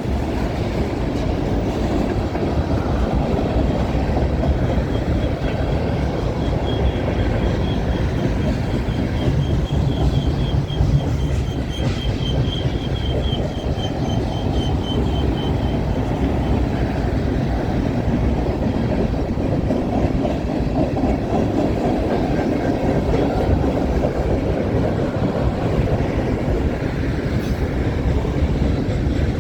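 CN freight train's cars, including grain hoppers, rolling steadily past on jointed rail with a continuous rumble and clatter of wheels on track. A faint, high wavering wheel squeal runs through it from about 6 to 16 seconds in.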